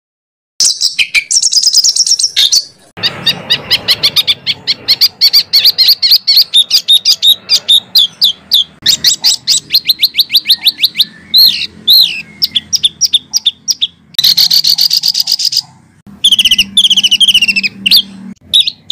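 Songbird singing a fast rolling trill of rapid repeated notes, many to the second, broken by a few short pauses and bursts of harsher notes. It is a spliced masteran training song, and it starts after a brief moment of silence.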